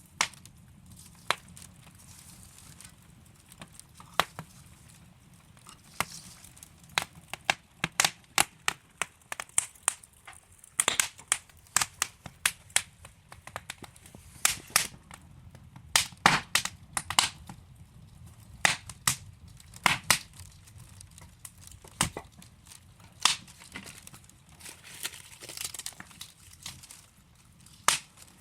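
Wood fire crackling: burning logs giving off irregular sharp pops and snaps, dense through the middle and sparser near the start and end, over a low, steady hiss of flame.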